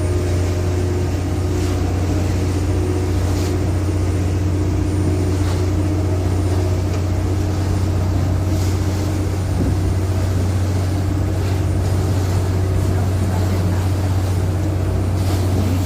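Engine running with a steady low drone, with a few faint knocks now and then.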